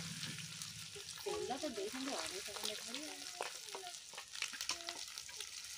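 Prawns deep-frying in hot oil in an iron kadai, a steady sizzle with scattered clicks and scrapes of a metal spatula turning them in the pan.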